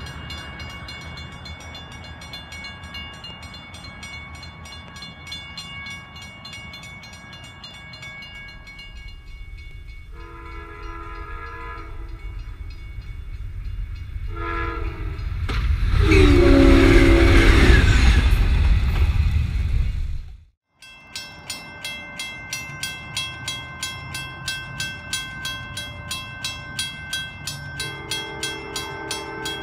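Railroad crossing bell ringing as an Amtrak train approaches; the train's horn sounds two blasts, then the train passes close with a loud rush and a horn blast that falls in pitch as it goes by. After a sudden cut, another crossing bell strikes about twice a second and a second Amtrak locomotive's horn sounds near the end.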